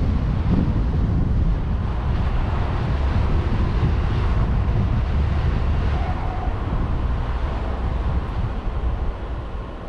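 Wind rushing over the microphone of a vehicle-mounted camera, together with the low rumble of the vehicle driving; it eases slightly near the end.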